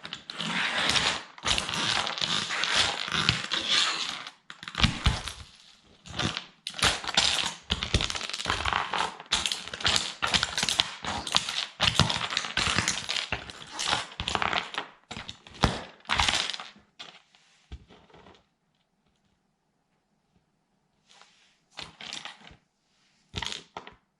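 Toy military truck being crushed under a sandal: rapid, irregular cracking and crunching for about seventeen seconds, then a pause broken by a few short crunches near the end.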